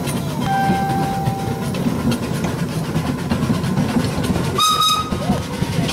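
Miniature railway train running with a steady low rumble, heard from a passenger car. A whistle sounds twice: a flat tone lasting about a second near the start, and a shorter, higher blast near the end.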